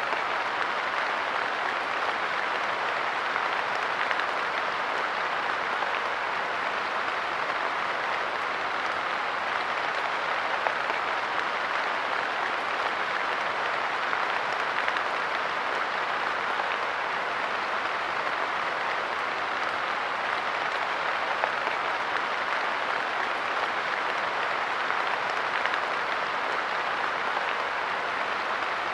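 Light rain pattering steadily on a park bench, a dense, even patter of drops with no change in strength.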